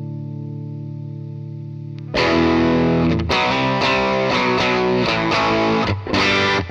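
Electric guitar with overdrive from a DemonFX Jan Ray pedal. A held chord rings and fades, then about two seconds in a loud driven chord starts a run of picked chords and notes, with short breaks near the end.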